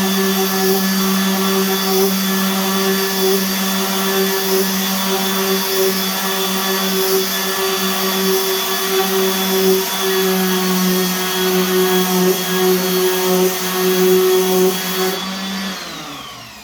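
Electric orbital sander running steadily against wood. About 15 seconds in it is switched off, and its motor whine falls in pitch as it winds down.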